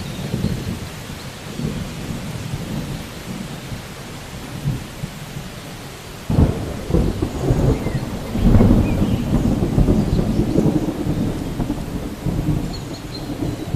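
Steady rain with a roll of thunder that breaks in suddenly about six seconds in, rumbles loudest a few seconds later, then slowly dies away.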